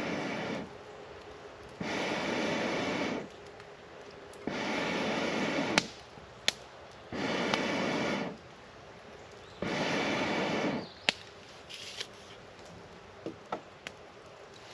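A person blowing into a campfire's embers in five long, even breaths, about two and a half seconds apart, to liven the fire. Sharp single pops from the burning wood fall between the breaths and after the last one.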